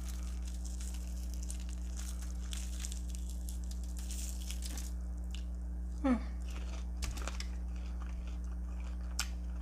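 Close-miked biting and chewing of crunchy Flamin' Hot Cheeto-breaded fried chicken wings over a steady electrical hum. A brief pitched vocal sound about six seconds in, and a few small clicks later.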